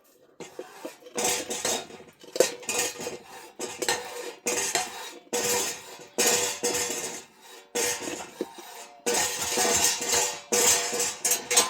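Metal utensil scraping and clinking against a metal cooking pot in repeated strokes less than a second apart, some leaving a faint metallic ring.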